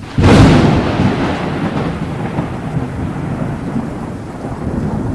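A thunderclap: a sudden loud crack about a fifth of a second in, then a long rumble that slowly fades under steady rain.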